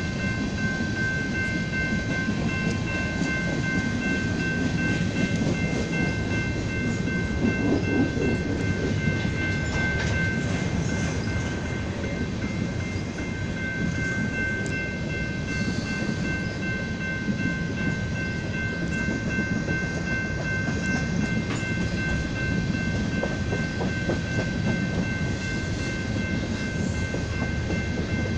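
Freight train of BNSF covered grain hopper cars rolling past at speed: a steady rumble and clatter of wheels on rail. A thin, steady high-pitched ringing tone sounds over it, dropping away for a while around the middle.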